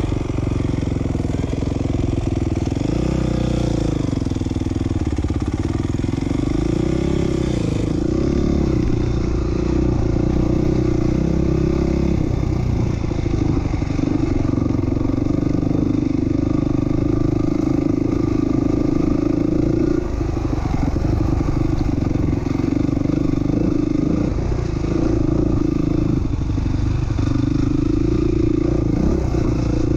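A '07 450R motocross bike's single-cylinder four-stroke engine running, freshly restarted. The revs rise and fall a few times in the first several seconds, then hold fairly steady with brief dips.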